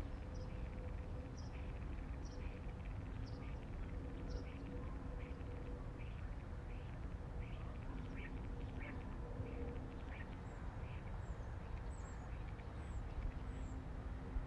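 Wild birds calling in the morning, with short calls repeated about once a second and a few thin, high calls near the end. A steady low rumble and faint hum run underneath.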